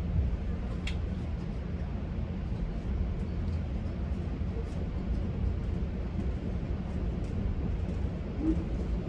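Steady low rumble of a GO Transit bilevel passenger coach running along the track, heard from inside the coach, with a few faint light ticks and rattles.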